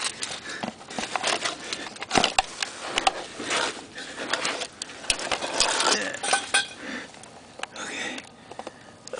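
Irregular metallic clinks, knocks and scrapes of hands and tools working around a newly fitted starter motor in a tight space.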